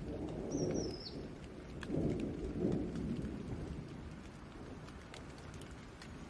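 Steady rain with rolling thunder: a low rumble swells at the start and again, louder, about two seconds in, over scattered ticking drops.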